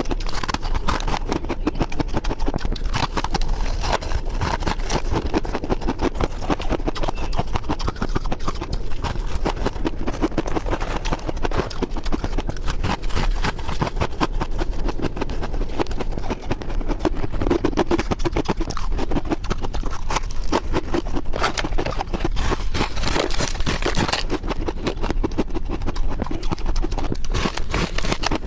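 Ice being bitten and chewed, a continuous run of crisp crunches and cracks.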